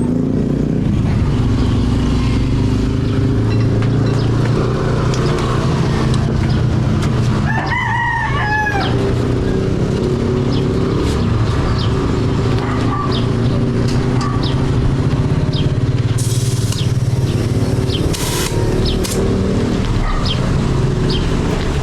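A rooster crows once, about eight seconds in, over a steady low rumble, with a few sharp clicks near the end.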